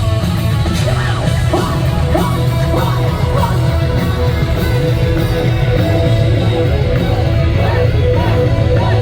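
Live J-rock band playing loudly, with electric guitar prominent, recorded from the audience.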